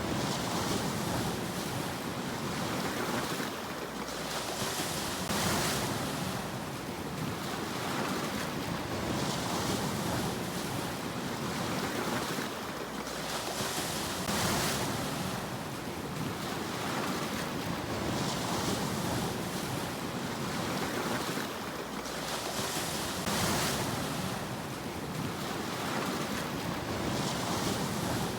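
Sea waves washing ashore continuously, with a swelling hiss of surf every few seconds.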